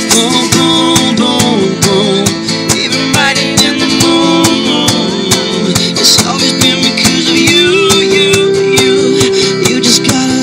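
Live band playing a pop song, carried by strummed acoustic guitar over a steady beat, in a stretch without sung lyrics.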